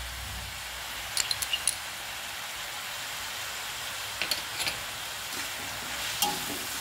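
Vegetables stir-frying over a high flame in an oiled steel kadhai, sizzling steadily. Two short runs of clicks from the slotted steel spatula knocking the pan come about a second in and again about four seconds in.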